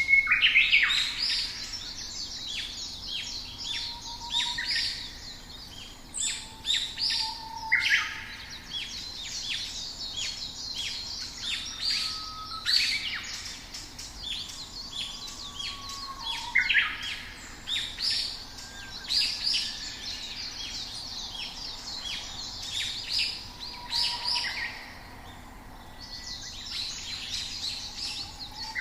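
Several small songbirds chirping and singing over one another: a dense run of quick high calls and trills with brief gaps, plus a few short lower whistles.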